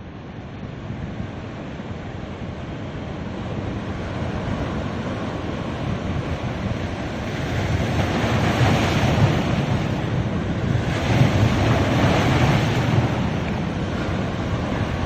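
Ocean surf breaking and washing on a sandy beach, a steady rushing wash that swells twice into louder surges in the second half.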